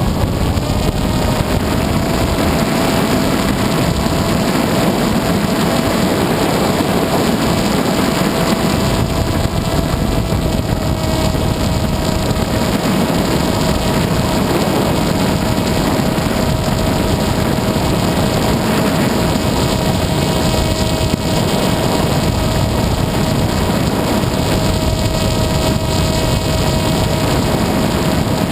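FPV aircraft's onboard audio in flight: a steady motor and propeller whine over heavy wind rush on the microphone, the pitch stepping up slightly a second or two in and then holding.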